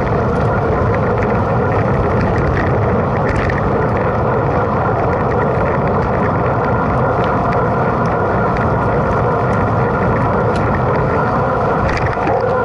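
Mountain bike ridden at race pace: a steady rush of wind and tyre noise on the bike-mounted camera, with scattered small clicks and rattles from the bike.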